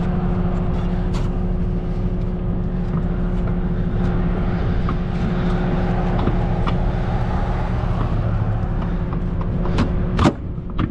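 Steady hum of an idling semi truck's diesel engine, with scattered small metallic clinks and one sharp knock about ten seconds in, from hose fittings and valves being handled.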